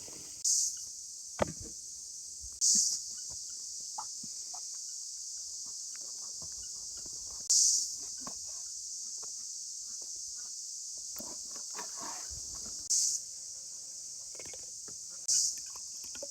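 A steady, high-pitched insect chorus. Five short, louder bursts of the same high buzz come every few seconds, with faint scattered clicks and rustles underneath.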